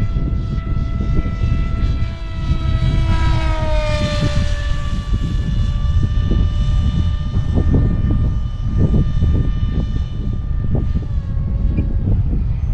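Electric motor and pusher propeller of an RC pusher-jet wing in flight: a steady high whine that falls in pitch about four seconds in and again near the end, over heavy wind rumble on the microphone.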